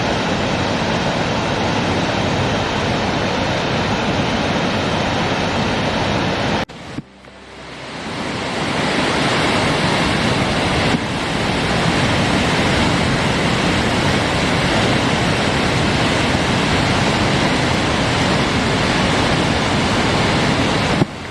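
Reekie Linn waterfall on the River Isla: a loud, steady rush of falling water. About a third of the way in it cuts off abruptly and fades back in over a couple of seconds.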